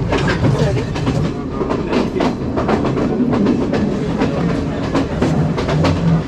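Passenger train in motion: its wheels clatter over the rail joints with a steady rumble and frequent sharp knocks and rattles, heard from on board.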